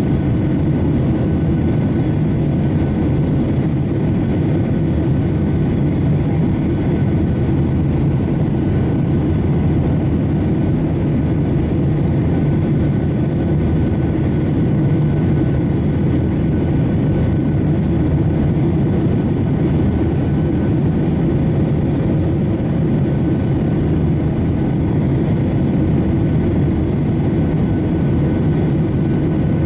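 Steady drone of a Boeing 737-800 climbing out after takeoff: its CFM56 jet engines and the rushing air, unchanging throughout, with a few faint steady tones above the rumble.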